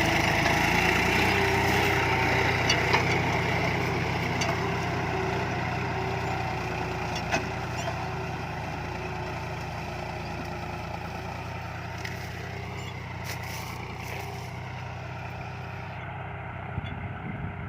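John Deere farm tractor's diesel engine working steadily as it pulls a six-disc plough, growing fainter as the tractor moves away, with a few sharp knocks.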